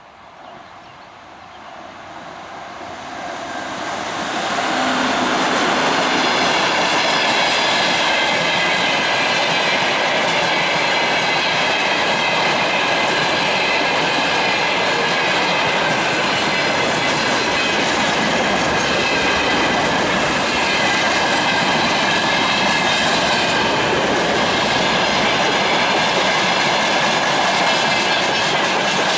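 Freight train behind an ER20 diesel locomotive passing close by. The noise builds over the first few seconds, then holds steady as the wagons' wheels rumble and clickety-clack over the rail joints, with a faint high squeal from the wheels.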